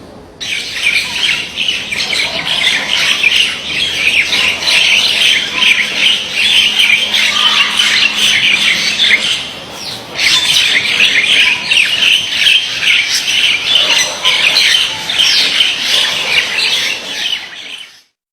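Flock of birds chirping, a dense chorus of many short overlapping calls with a brief lull a little past halfway; it cuts off suddenly near the end.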